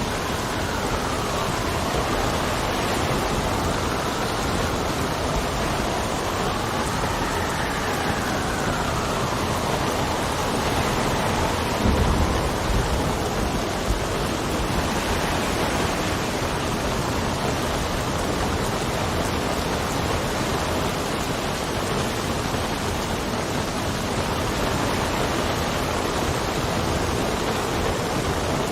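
Steady rain with wind whistling in slowly rising and falling tones through the first half, and a brief low rumble about twelve seconds in.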